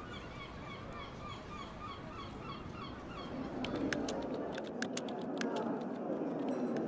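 A bird calls over and over in short, evenly spaced notes, about four a second. About three and a half seconds in, laptop keys start clicking in a quick, uneven run of taps over a low background murmur.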